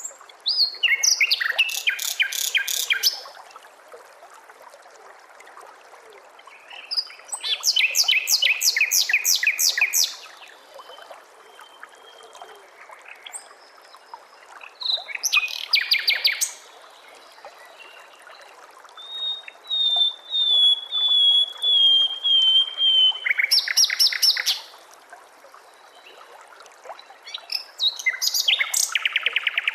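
A songbird singing in about five phrases of fast, evenly repeated chirping notes, each lasting one to three seconds, with a thin, slowly falling whistled trill in the middle.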